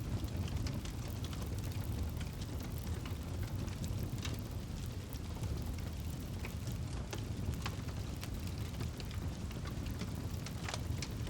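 Campfire burning: a steady low rumble of flames with scattered, irregular crackles and pops from the wood.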